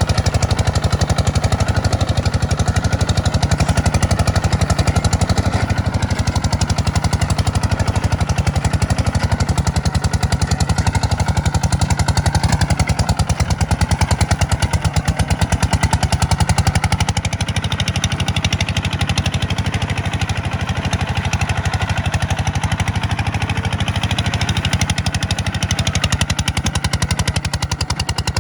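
Tractor's diesel engine running steadily under load, with a fast, even clatter of firing pulses; it gets slightly quieter about 17 seconds in.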